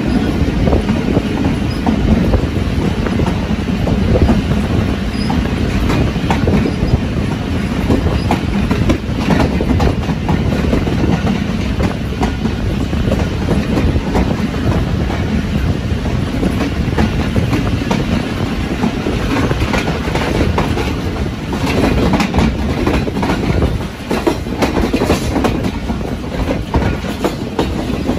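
Karachi Express passenger train running along the track: a steady rumble with the wheels clattering over the rail joints.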